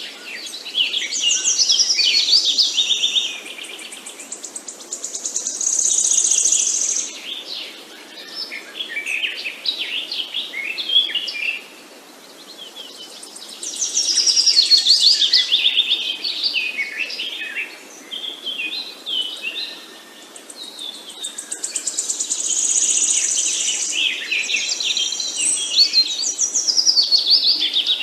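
Songbirds chirping and trilling in quick, overlapping phrases, rising and falling in loudness every few seconds.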